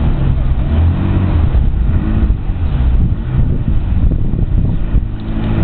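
Ferrari 360 Modena's 3.6-litre V8 running at the kerb, its pitch rising and falling a few times.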